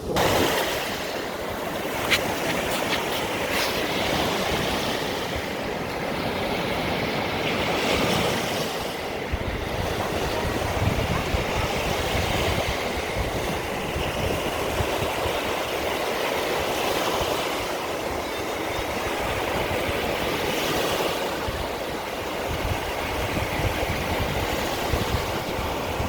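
Baltic Sea surf washing onto the shore, a steady rush that swells and eases every few seconds, with wind rumbling on the microphone.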